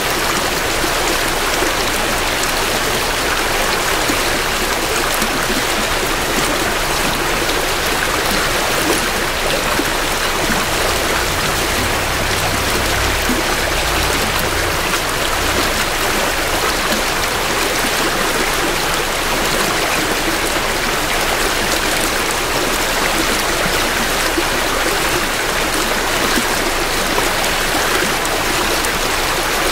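Small creek flowing steadily, a continuous rushing and babbling of water heard close to the water's edge. A faint low rumble comes in briefly around the middle.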